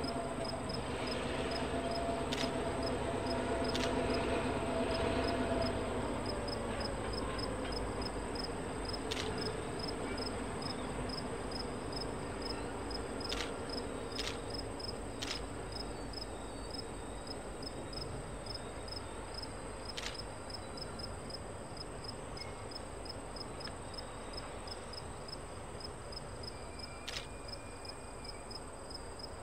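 A diesel-hauled passenger train rolls away across a bridge. The locomotive's engine hum fades out over the first several seconds, leaving a low rumble of wheels on the rails with occasional sharp clicks. Insects chirp in a high, evenly pulsing rhythm over it.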